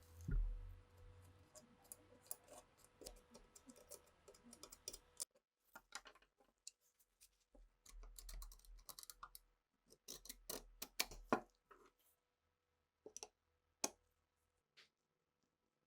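Light clicks and taps of small metal pistol parts being handled and worked, with a dull knock just after the start.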